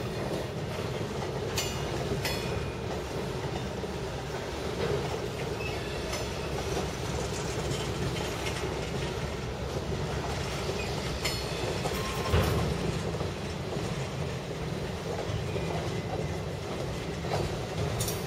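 Train cars rolling past with a steady rumble and wheels clacking over the rail joints. Short, high wheel squeals come and go, and there is a louder clank about twelve seconds in.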